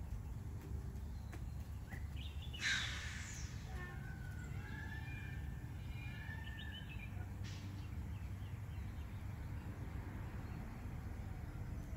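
Faint bird chirps over a steady low background rumble, with a short hissing burst about three seconds in, the loudest moment.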